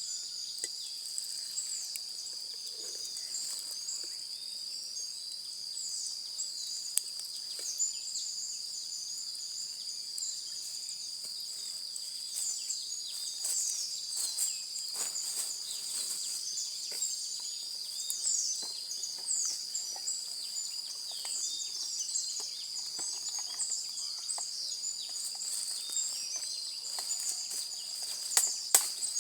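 Outdoor ambience: a steady, high-pitched insect drone under many quick bird chirps. Occasional sharp clicks and snaps come through, two louder ones about seven seconds in and just before the end.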